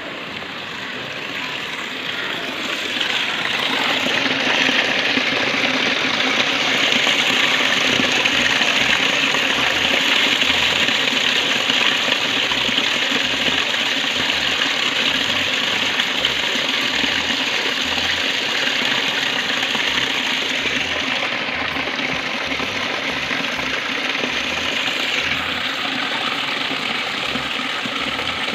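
Heavy rain falling in a steady hiss, getting louder about three seconds in, then holding.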